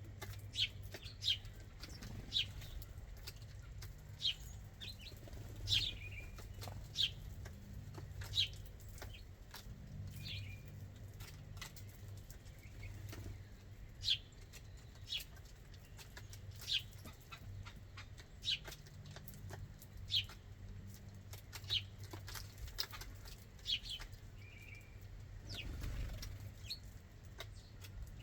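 Backyard birds chirping: short, sharp high chirps, one every second or two, over a steady low hum.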